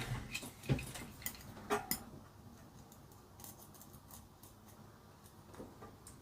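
Light clicks and taps of small hard plastic parts being handled, a few sharp ones in the first two seconds and then only faint ticks.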